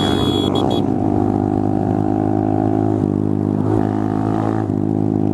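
Honda MSX125 (Grom) single-cylinder four-stroke engine running steadily through an aftermarket Zoom exhaust.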